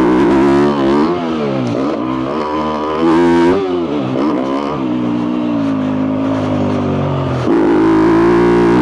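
2022 Yamaha YZ250F's single-cylinder four-stroke engine through a full FMF exhaust, revving up and down repeatedly as the throttle is worked. There is a steadier, slowly falling stretch in the middle, then the revs climb and hold high near the end.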